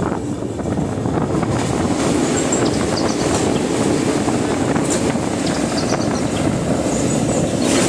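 Train running along the track: a steady rumble of wheels on rails with scattered light clicks.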